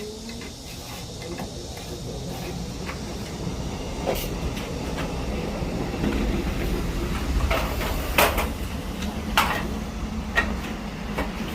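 Wallpaper sheet being handled and slid into place on the wall: a low rubbing rumble that builds, with several sharp paper crackles in the second half.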